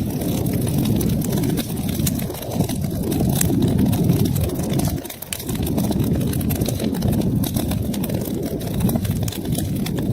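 Wood fire burning in a fireplace: a steady low roar of flames with frequent small, irregular crackles and pops.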